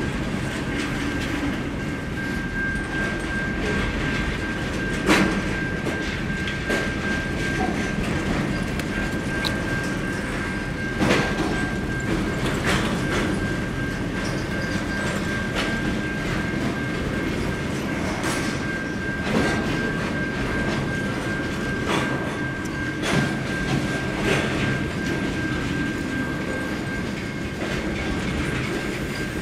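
Double-stack container wagons of a long freight train rolling past, their wheels rumbling and clicking over the rail with sharp clanks every few seconds. A steady high whine runs under most of it.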